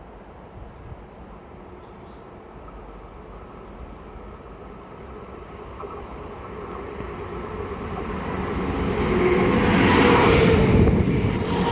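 Diesel train approaching on the line, its engine and wheel noise growing steadily louder until it passes close by about ten seconds in.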